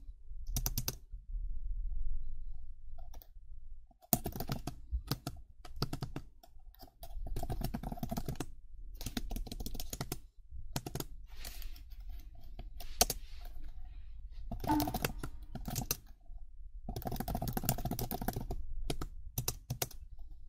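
Computer keyboard typing in fast bursts of key clicks, with short pauses between the runs.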